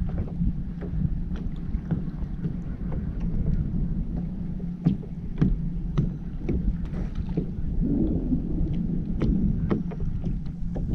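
Kayak on the water: a steady low rumble of wind on the microphone with irregular small splashes and knocks of water against the hull.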